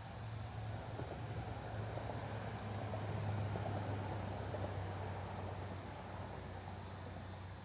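Steady high-pitched insect chorus, a continuous trill, over a low, even rushing noise that swells slightly near the middle.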